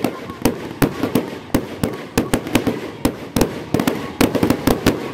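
Fireworks display: a rapid, irregular string of sharp bangs from bursting aerial shells, about four a second.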